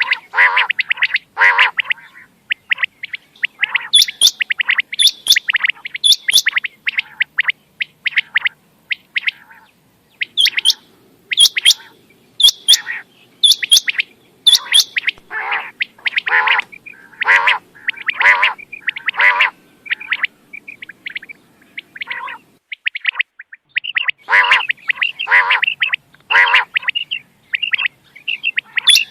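Quail calling in bouts of short, loud, repeated notes, about one to two a second, with brief pauses between bouts.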